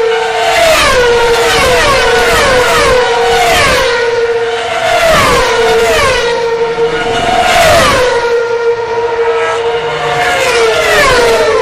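High-revving racing engines going past one after another, about a dozen times, each engine note sweeping down in pitch as it passes and settling onto a steady held drone.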